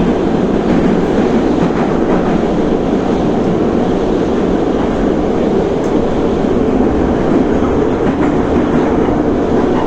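Moscow Metro 'Sokolniki' retro train running along the track, a steady rumble of wheels on rails with some clickety-clack.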